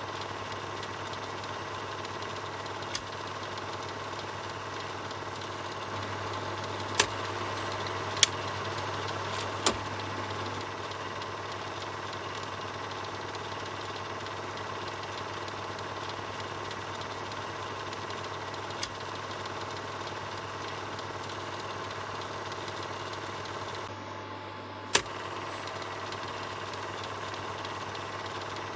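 Film projector running steadily, its motor and mechanism giving a constant whirring hum. About six sharp clicks are scattered through it, the loudest near the end.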